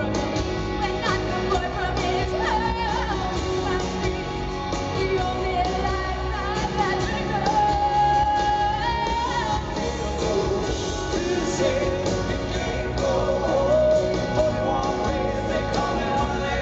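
Live rock band playing a song with lead vocals and a sustained sung note about halfway through, recorded from the audience.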